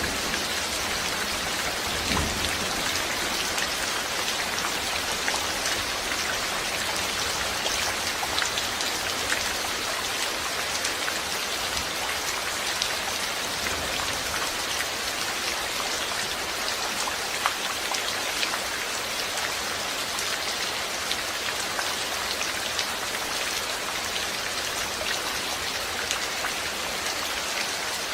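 Steady rain falling, with a dense hiss of drops and many small individual drop ticks on a surface. Faint low rumbles come briefly about two seconds in and again around the middle.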